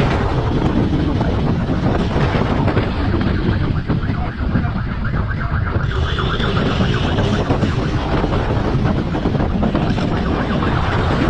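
A vehicle at speed, its engine and road noise under heavy wind buffeting on the microphone, with a brief high tone about six seconds in.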